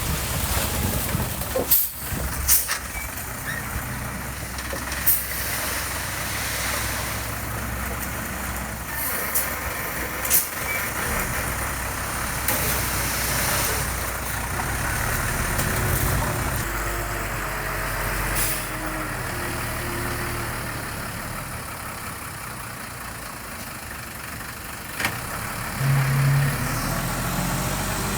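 Heavy diesel construction machinery running steadily, with several short sharp hisses or clanks. There is a brief pitched sound near the end.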